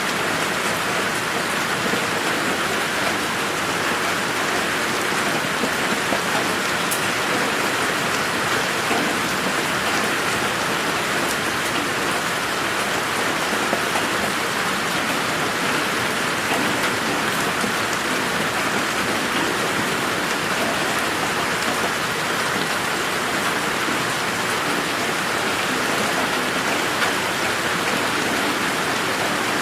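Steady rain falling in a garden, an even dense hiss of drops hitting surfaces with an occasional louder drop.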